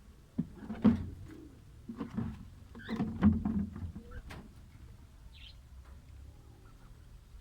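A few short chirps from small aviary birds, among a cluster of sharp knocks and thuds in the first four seconds.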